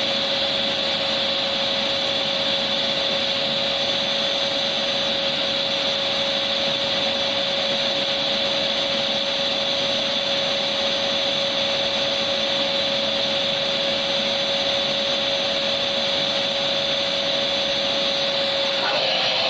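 Electric vacuum cleaner motor running steadily, a constant rushing noise with a steady whine. Just before the end the sound changes abruptly: the whine drops out and a plainer hiss takes over.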